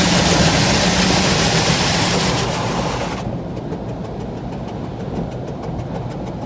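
Automatic car wash machinery heard from inside the car: a loud, steady hiss of spraying water or blowing air over the car with a low hum beneath it. The hiss cuts off sharply about three seconds in, leaving a low rumble.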